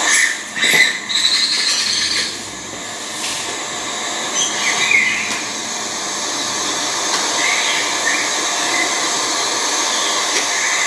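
Scarlet tanager giving short phrases every few seconds over a steady loud hiss.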